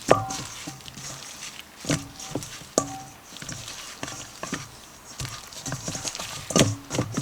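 Seasoned, oiled chicken legs being tossed and mixed in a bowl: irregular knocks and clatter against the bowl, some of them ringing briefly, with louder knocks about two seconds in and near the end.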